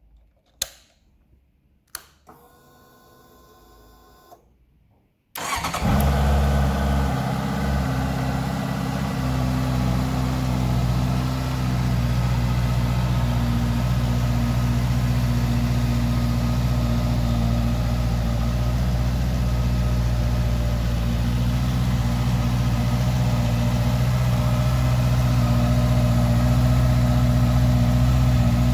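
Honda CBR650F's 649cc inline-four engine starting about five seconds in and settling into a steady idle. Before it, two short clicks and a faint brief hum.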